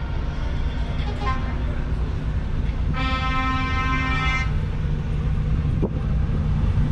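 Heavy diesel truck engine, the Iveco S-Way's 12.9-litre six-cylinder, running with a steady low rumble. About three seconds in, a horn sounds once for about a second and a half.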